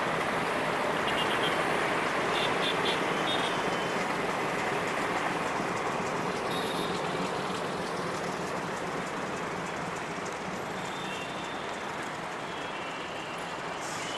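Meter-gauge passenger train rolling past as it leaves the station: a steady rumble and rattle of the coaches on the track, easing off slightly toward the end.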